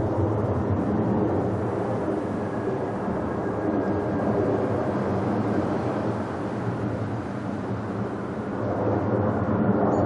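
Airbus A330 jet engines at takeoff power, a steady loud rumble with a faint whine above it.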